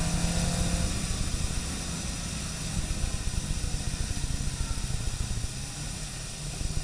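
Car driving on a wet track: the engine note fades about a second in. What is left is a steady hiss of tyres on wet tarmac over a low rumble.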